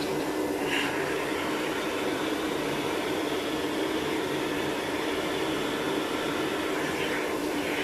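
Vacuum cleaner running steadily with an even whooshing hum.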